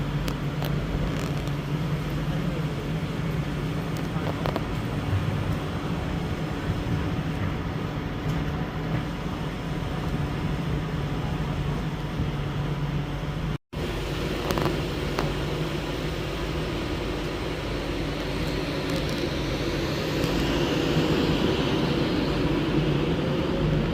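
A train running at a station platform: a steady low hum over rumble, cut off briefly a little past halfway. Near the end a high whine rises and falls.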